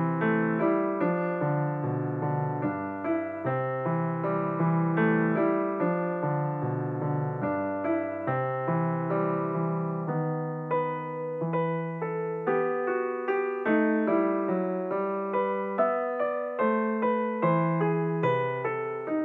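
Background piano music: a steady, gentle run of notes.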